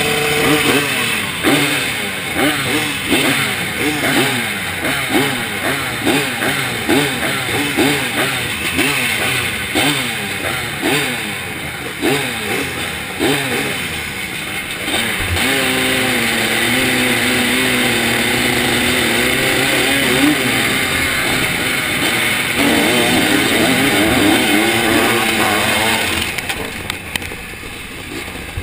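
Zabel 700 two-stroke sidecar-cross engine, heard onboard, revving up and down in quick succession about once a second. It then holds steady at high revs for several seconds, revs up and down again, and eases off near the end.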